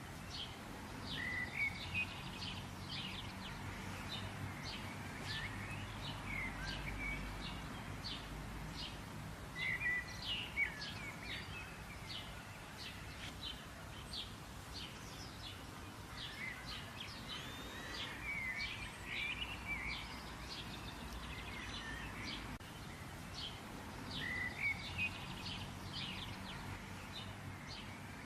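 Several songbirds chirping and calling, with many short notes and a few curling phrases, over a steady low background rumble.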